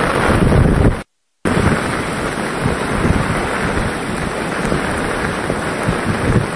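Heavy cyclone rain pouring down, with wind buffeting the microphone in a low, fluttering rumble. The sound cuts out for a split second about a second in, then the downpour carries on.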